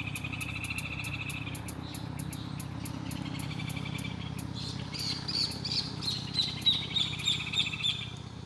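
A bird singing a run of repeated chirps, about three a second, starting about halfway in, over a steady background chorus of frogs and insects.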